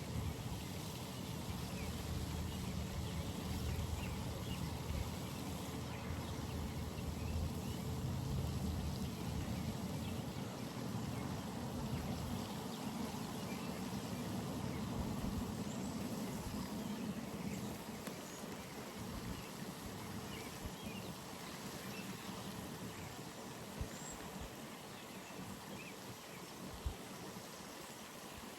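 Pond ambience: steady running, trickling water with a low rumble that fades after about eighteen seconds, faint high chirps scattered through, and a single sharp click near the end.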